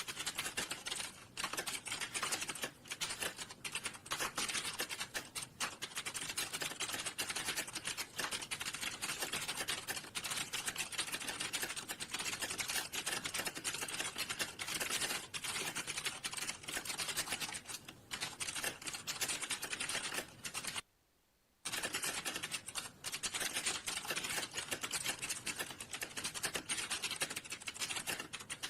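Fast, continuous typing on a computer keyboard, with keys clicking in a dense unbroken stream. It stops for under a second about two-thirds of the way through, then carries on.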